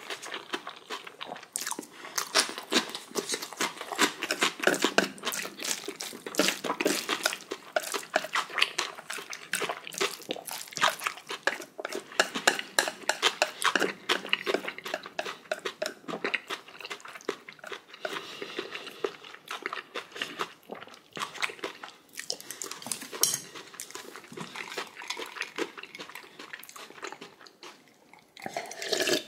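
A person eating close to the microphone: a steady, irregular run of wet mouth smacks, chewing and crunching as black-bean sauce instant noodles (Chapagetti) and spicy kimchi are chewed. It eases off briefly near the end.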